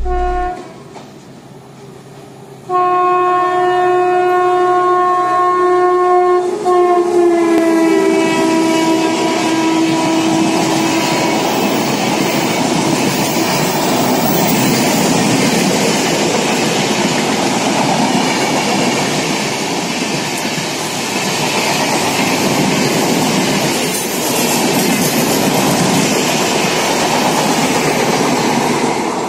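Kalka Shatabdi express passing a station at slow speed. Its electric locomotive sounds a long horn blast of about four seconds, which drops in pitch as it goes by. The coaches then run past with a steady noise of wheels on rails.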